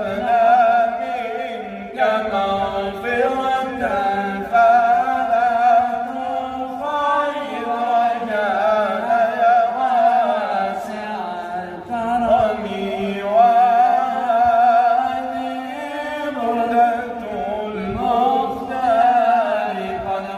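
A male voice chanting Islamic devotional praise poetry (madih) in long, wavering melismatic phrases, with no clear words, broken by short breaths every few seconds.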